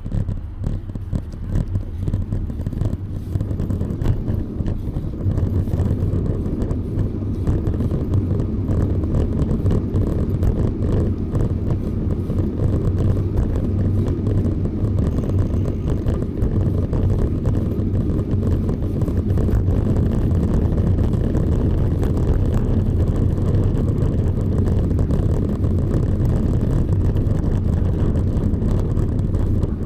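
Steady low rumble of wind buffeting the microphone while riding a bicycle, building over the first few seconds and then holding steady.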